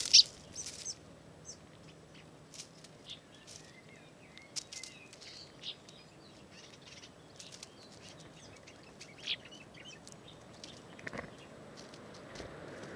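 Small wild birds calling and chirping: short, scattered high notes at irregular intervals, the loudest burst right at the start.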